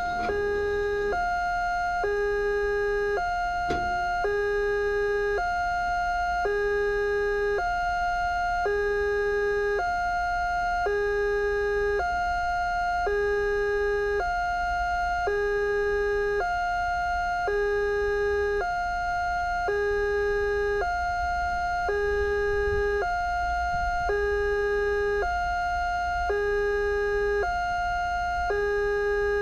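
Railway level crossing warning siren sounding a steady two-tone high-low alternation, each tone about a second long, the alarm given while the crossing closes for an approaching train.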